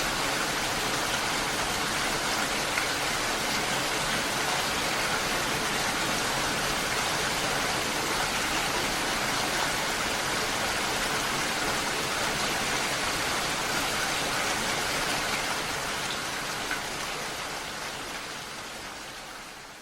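Steady hiss of falling water, even and unbroken, fading out over the last few seconds.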